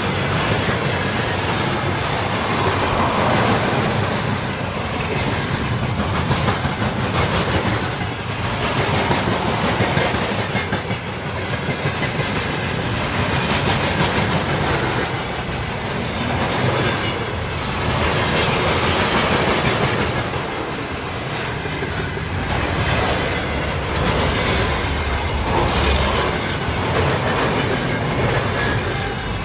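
Train wagons rolling past close by, wheels clicking steadily over the rail joints. A brief rising high squeal comes at about two-thirds of the way through.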